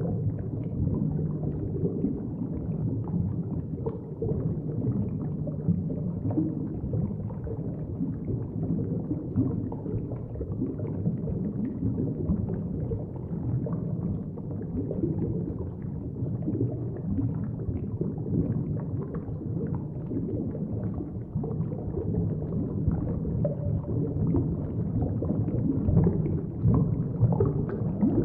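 Underwater ambience: a steady, low rumbling wash of noise with small irregular flecks through it, a little louder near the end.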